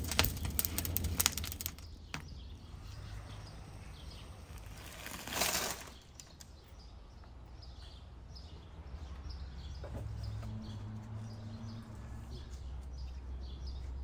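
Small birds chirping over and over in the background above a low steady outdoor rumble, with crackling at the start and a short rush of noise about five seconds in.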